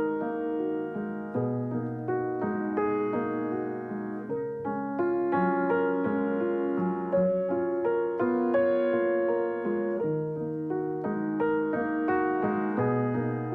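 Background piano music: a slow piece of single notes and chords, each note struck and fading.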